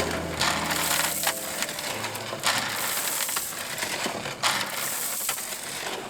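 Gravel and stones crunching and scraping in repeated bursts, the sound of gravel being worked for a drainage bed.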